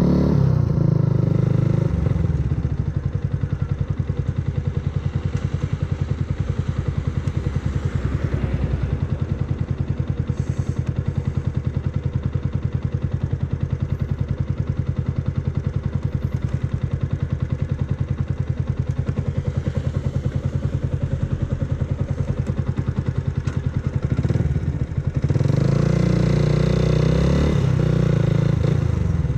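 Yamaha R125's 125 cc single-cylinder four-stroke engine through an aftermarket full exhaust. It comes off the throttle about two seconds in and settles to a steady idle for around twenty seconds, then revs up and pulls away near the end before easing off again.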